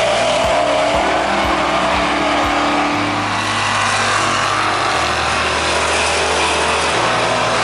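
Race car engines running loud and steady at a drag strip, with faint shifts in pitch rising and falling.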